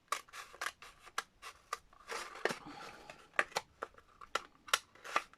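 Scissors cutting into a cardboard kitchen roll tube: a string of irregular sharp snips with some scraping between them. The cardboard is resisting the cut.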